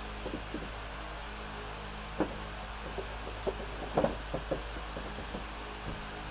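Jumper cable clamps being handled and clipped on: scattered light clicks and knocks, a cluster about four seconds in, over a steady low hum.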